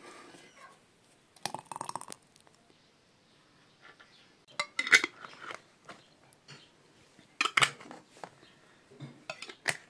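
Kitchenware clinking and knocking in four short bursts of sharp clicks, the loudest about halfway through and again a little later.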